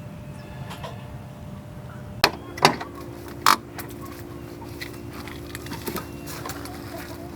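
Several sharp knocks over a low background rumble, with a steady low hum starting a little over two seconds in.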